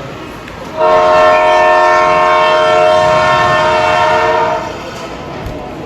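Arena horn sounding one loud, steady blast of about four seconds, starting about a second in.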